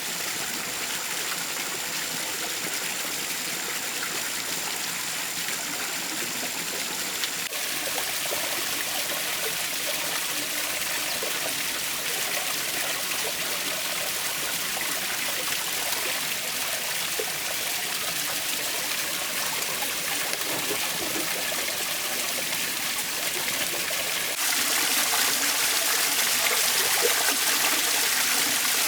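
Water trickling and splashing steadily down a small artificial stone waterfall. The sound shifts abruptly about seven seconds in and gets louder for the last few seconds.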